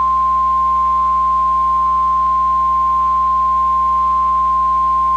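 NOAA Weather Radio warning alarm tone: a single steady, loud pure tone of about 1050 Hz, the alert that a warning broadcast is about to follow. A faint low hum sits underneath.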